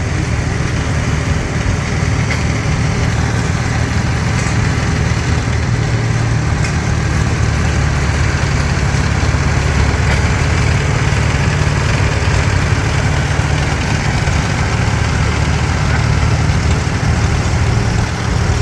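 Antique farm tractor engine running steadily at low speed in a parade, with a deep, even beat.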